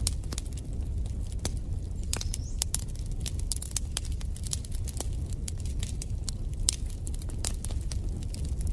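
Wood fire crackling in a fireplace: a low steady rumble of flames with frequent sharp, irregular pops and snaps.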